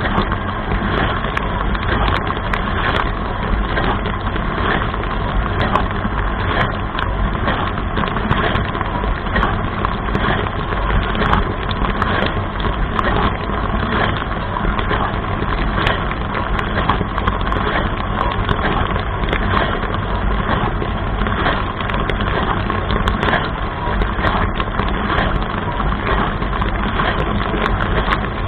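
Running dishwasher heard from inside the tub: a steady drone of the pump with water jets from the spray arms splashing continuously, full of small spattering ticks.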